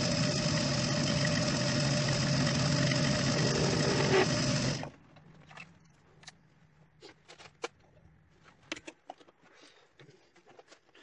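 Metal lathe running steadily with a machine hum, switched off about five seconds in; after that come light clicks and knocks of metal tooling being handled.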